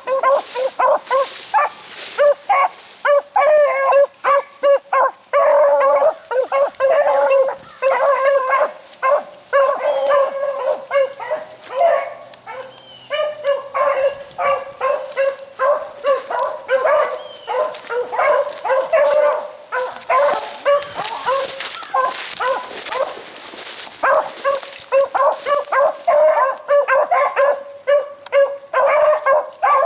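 Pack of beagles baying in rapid, overlapping calls as they run a rabbit's scent trail.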